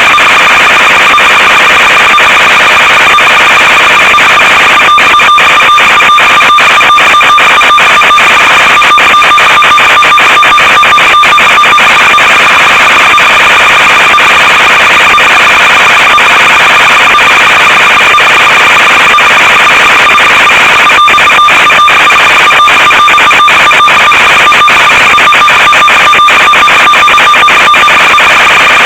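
Loud steady electronic buzz and hiss from an analog FPV video link's recorded audio, with two fixed tones that never change pitch. Brief crackling breakups come in places, as the radio signal momentarily breaks up.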